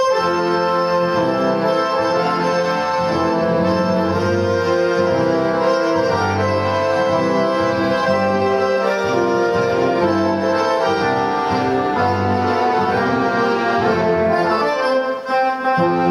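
Accordion orchestra playing Christmas music: full, sustained reed chords over a stepping bass line.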